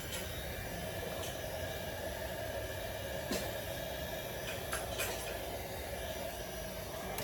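A small electric motor running steadily with an even whir, with a few light clicks about three and five seconds in.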